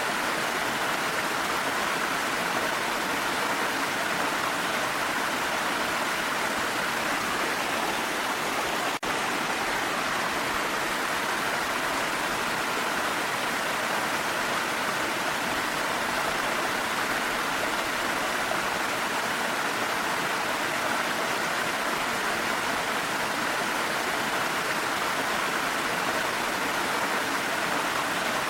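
Steady rushing water of a waterfall mixed with falling rain, an even, unbroken wash of noise that drops out for an instant about nine seconds in.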